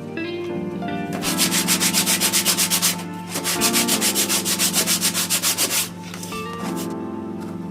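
Rapid back-and-forth rubbing strokes, about seven a second, in two runs of a couple of seconds each, over background music.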